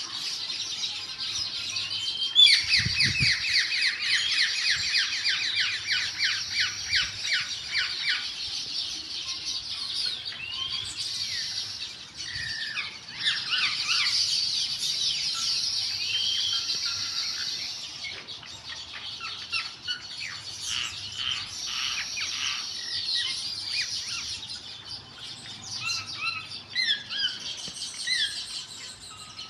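Small birds chirping, with dense high calls and runs of fast repeated notes coming and going throughout. There is a short low bump about three seconds in.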